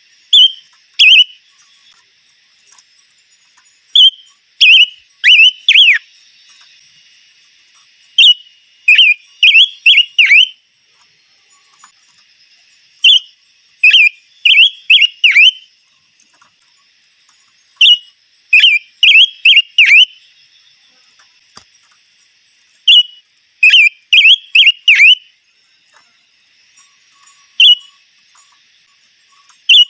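Songbird singing a loud, clear whistled phrase over and over, about every five seconds: a single high note, then a quick run of four or five down-slurred notes.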